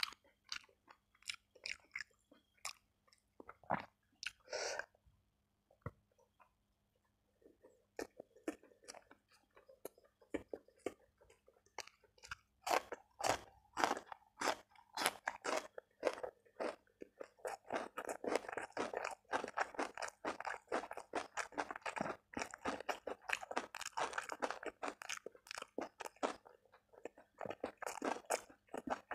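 Close-miked chewing and crunching of food eaten by hand. It is sparse with a short pause at first, then dense crunching from about twelve seconds in, including bites of raw cucumber.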